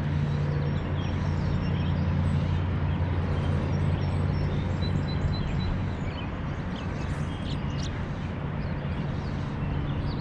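A steady low hum over a constant rushing background, with many faint short bird chirps scattered through.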